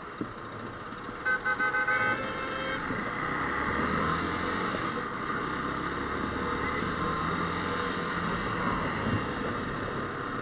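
A vehicle horn gives a rapid run of about five short toots, about a second in, over the steady running of the motorbike and road noise.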